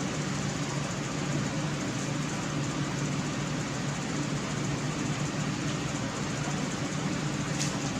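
Steady mechanical hum, even and unchanging, with a single light click near the end.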